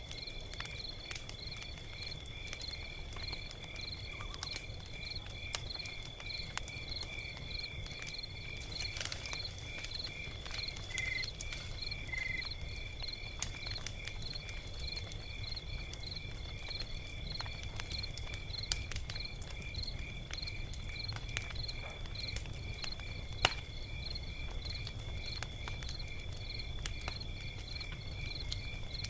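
Log fire crackling, with scattered sharp pops (one louder pop near the end) over a low steady rumble. Crickets chirp steadily in rhythm throughout.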